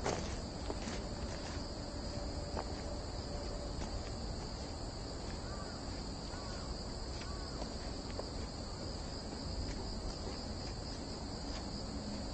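Steady, unbroken high-pitched drone of summer forest insects, with faint footsteps on the soft forest floor. About halfway through come three short, faint chirps.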